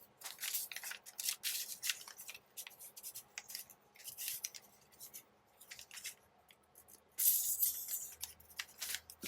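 Paper being handled and cut with scissors: a run of short, crisp snips and rustles, with a longer rustle about seven seconds in.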